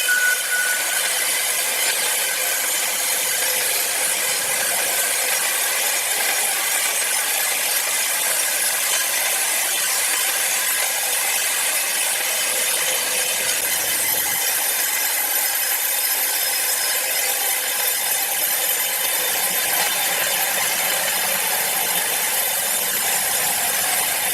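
Power saw blade cutting steadily through a large wooden log, a continuous hissing cut with no break.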